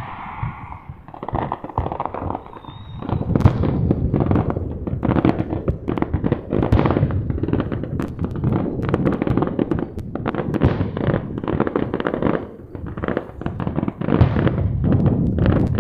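Aerial fireworks display: a dense barrage of overlapping shell bursts and crackling that builds about three seconds in and keeps going in rapid bangs.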